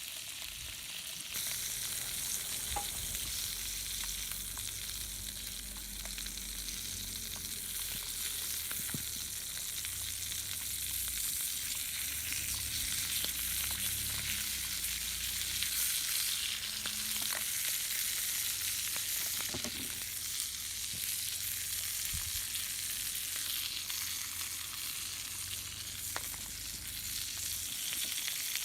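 Food sizzling steadily in a pan, with a few small ticks and pops now and then.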